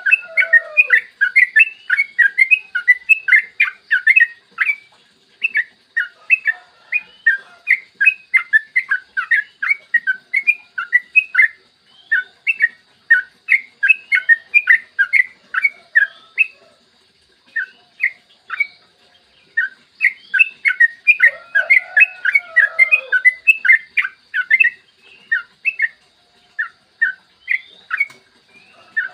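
Yellow-vented bulbul (trucukan) singing a long, rapid run of short sweeping notes, about four a second, with brief breaks. A lower chattering joins in for a couple of seconds past the middle.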